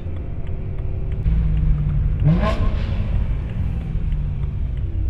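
BMW E92 M3's V8 engine running with a steady low rumble as the car drives. About two seconds in there is a brief rising sound.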